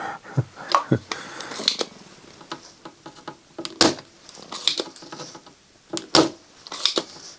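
Scattered sharp clicks and taps from tools handled on a circuit board during desoldering, about half a dozen spread over the span.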